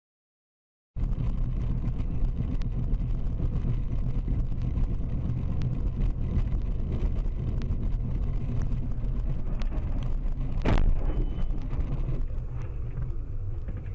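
Steady low rumble of a car's engine and road noise heard from inside the cabin, starting suddenly about a second in. About eleven seconds in, a single short sharp knock stands out above the rumble.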